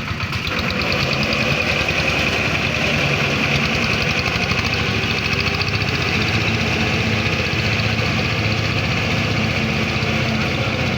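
An engine running steadily with a fast, even pulse. It gets a little louder about half a second in, then holds level.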